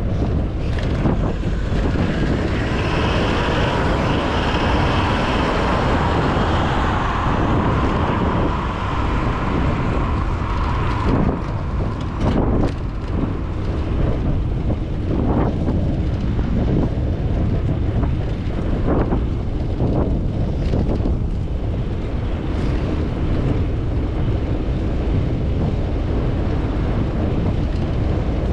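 Wind rushing over an action camera's microphone while cycling, a steady low rumble. For several seconds near the start, a higher steady whine rises over it, like a passing vehicle.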